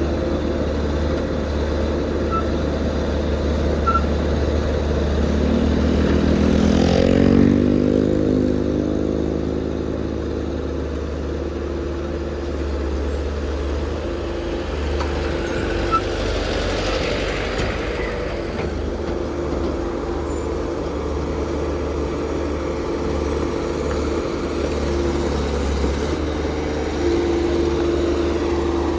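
Heavy diesel vehicle engines running steadily. One revs up with a rising pitch about six or seven seconds in, and there is a second louder swell of noise around sixteen to eighteen seconds.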